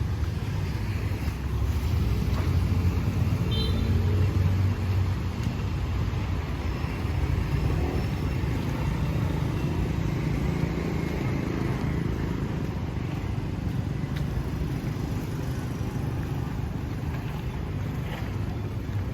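Street traffic passing, a steady low rumble of engines and tyres that swells a little about two to four seconds in.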